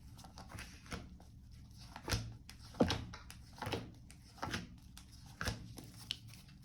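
Tarot cards being handled and laid out on a table: a string of soft, irregular taps and rustles about a second apart.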